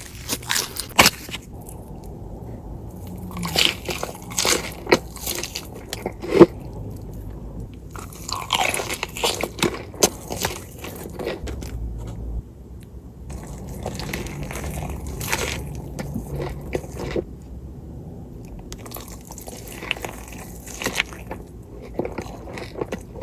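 A person biting into and chewing crunchy food, in several bouts of crunching a few seconds apart with quieter chewing between.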